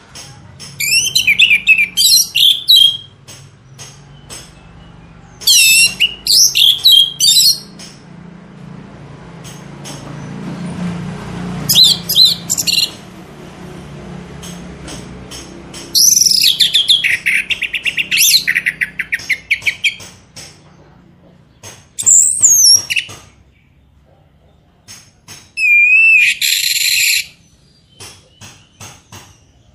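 Songbird singing in loud bursts of rapid, high-pitched chirps and trills a few seconds apart, with a harsh buzzy call near the end.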